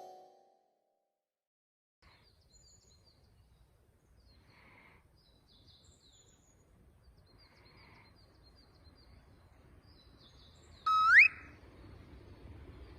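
Faint outdoor bird chirps over a low background hiss. About two seconds before the end comes one loud, short whistle that rises in pitch.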